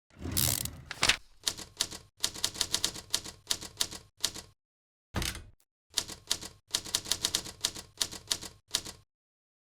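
Typing sound effect: quick runs of sharp key clicks, about five or six a second, in two long runs with a short pause between. A brief rush opens it and a single heavier hit falls in the pause.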